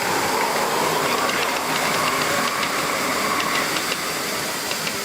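Miniature steam locomotive letting off a steady hiss of steam, which eases a little after about three and a half seconds, with a few faint ticks.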